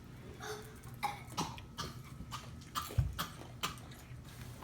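A person coughing a few times in short, sharp bursts.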